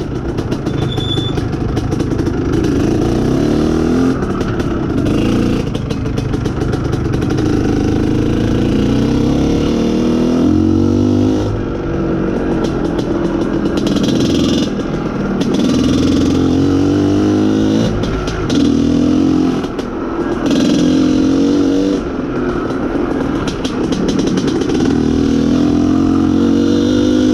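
IZh Planeta Sport's single-cylinder two-stroke engine under way, its revs rising and falling again and again through the gears. The rider takes the way it drops its revs for a very lean mixture.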